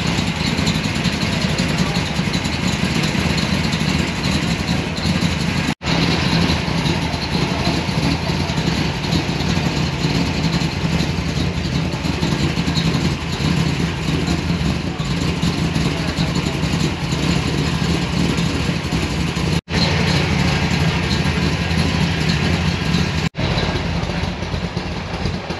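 Engines of American show cars running and idling steadily as they drive out of a car show, with occasional revs and voices in the background. The sound cuts out completely three times, very briefly.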